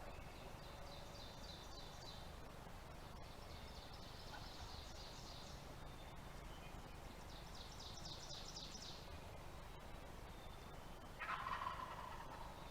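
A wild turkey gobbles once, a rapid rattling call about 11 seconds in and the loudest sound here. Before it, small birds give three faint, high, quick trills.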